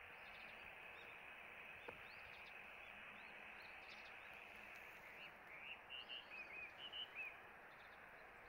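Small birds chirping faintly over a steady outdoor hiss, with a quick run of short calls about five to seven seconds in.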